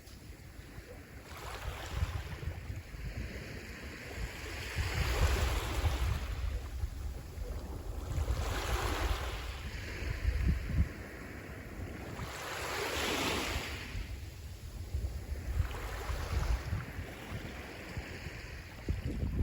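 Sea waves breaking and washing in, a swell of hiss about every three to four seconds, over a steady low rumble of wind on the microphone.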